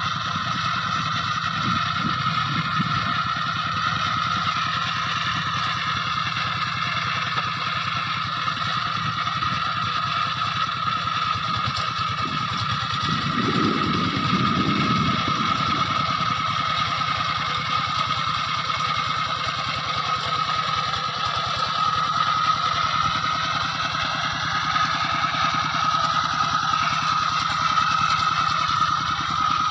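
A small engine running steadily with a constant whine. Its low end swells for a couple of seconds about halfway through.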